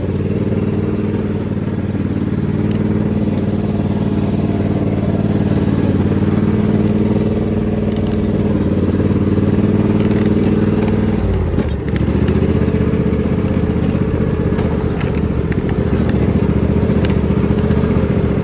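Riding lawn mower engine running steadily at speed. About two-thirds of the way in, it dips sharply in speed and then picks back up.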